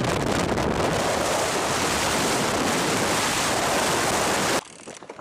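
Loud, steady rushing noise of stormy weather, with wind buffeting the microphone; it cuts off suddenly near the end.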